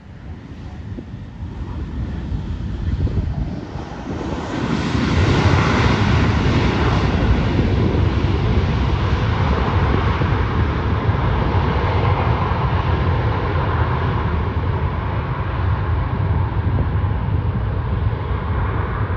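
Jet airliner engines heard passing at close range: the rushing jet noise swells about four seconds in and stays loud and steady, its hiss slowly dulling toward the end.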